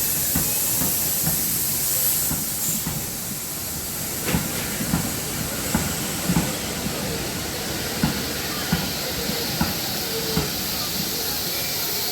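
Steam hissing from Fenchurch, a small LB&SCR Terrier tank locomotive, as it arrives slowly at a station, with a run of irregular low clunks from wheels and couplings from about four seconds in.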